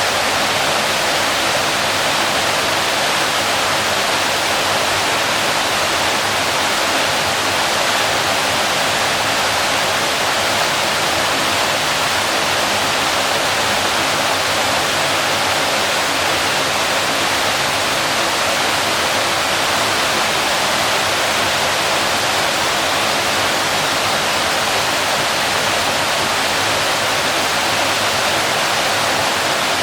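Waterfall: water falling and splashing, a steady, even rushing with no change.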